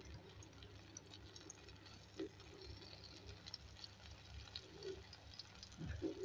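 Faint sizzling and crackling of an omelette frying in oil in a pan: scattered small pops and ticks from the bubbling batter edges.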